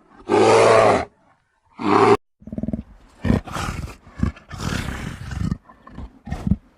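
A big cat roaring: one long, loud roar in the first second and a shorter one about two seconds in, followed by a run of shorter, lower calls with brief pauses between them.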